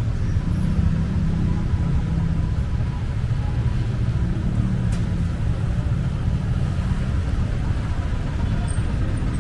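Steady low rumble of city street traffic, with a single faint click about five seconds in.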